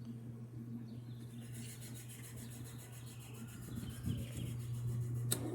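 Top-load washing machine running a spin test with its agitator off: a steady motor hum, with a fast, even ticking from about a second in as the tub spins. One sharp click near the end.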